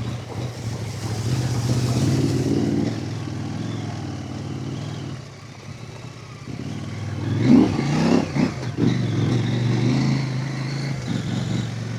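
Husqvarna Norden 901 adventure motorcycle's parallel-twin engine running at trail speed, its note dropping for a moment about five seconds in, then rising in a brief rev about seven and a half seconds in.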